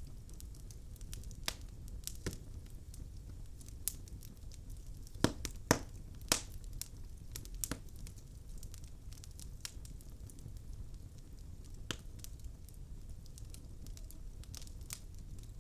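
Wood logs burning in a fireplace: irregular sharp crackles and pops, a few every couple of seconds, over a low steady rumble of the fire. The loudest pops come in a cluster about five to six seconds in.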